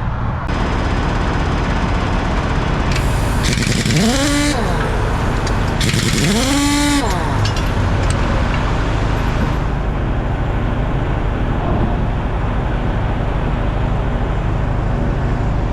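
Tractor-trailer's diesel engine running steadily on the road, with two rising whines about three and six seconds in.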